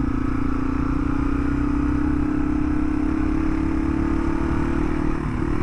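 2018 Yamaha TW200's single-cylinder four-stroke engine running steadily as the bike cruises along a dirt forest road, with a brief dip in engine pitch near the end.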